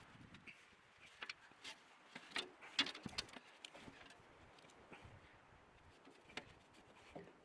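Scattered light clicks and clinks of metal parts being handled, a cluster of them about two to three seconds in and a few more later.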